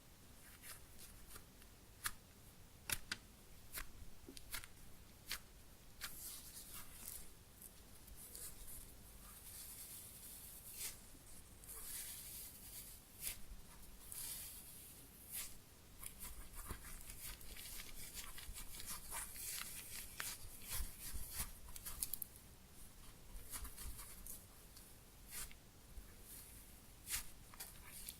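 Hands squeezing and handling a soft foam squishy toy shaped like Yukimi Daifuku close to the microphone: soft rustling and scratching with many small clicks, some passages denser than others.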